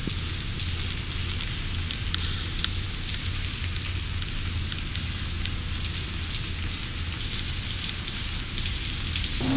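Steady rain falling on pavement, a constant hiss dotted with many small drop splats.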